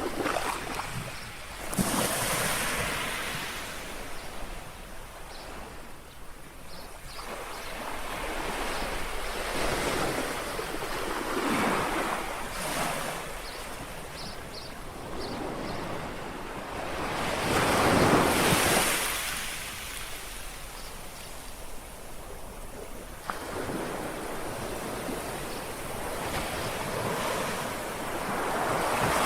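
Calm sea waves lapping and washing onto the shore. Each wave swells up and falls away every few seconds, the biggest about two-thirds of the way through.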